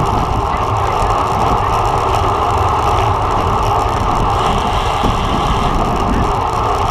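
Steady rush of wind over a bike-mounted camera's microphone while a road bike is ridden at race speed, with tyre and road noise underneath.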